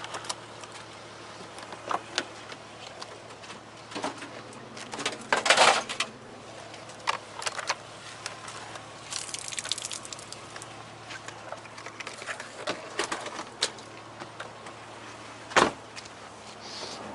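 Rummaging through curbside trash: scattered clicks, knocks and rustles of items being handled, the loudest a noisy rustle about five seconds in, over a low steady hum.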